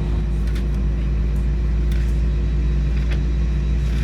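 Inside the cabin of an Airbus A319 airliner: a steady engine drone with a deep rumble that sets in sharply at the start and holds, with a few faint clicks.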